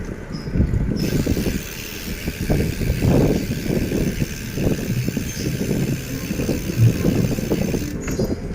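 Riding a bicycle: wind buffeting the microphone and road rumble, with a steady hiss that starts about a second in and cuts off suddenly near the end.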